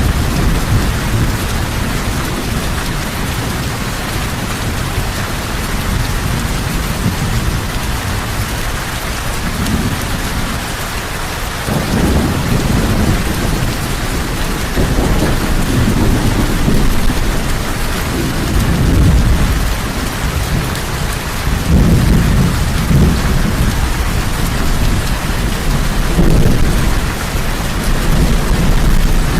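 Heavy rain falling steadily, with low rumbles of thunder swelling and fading several times in the second half.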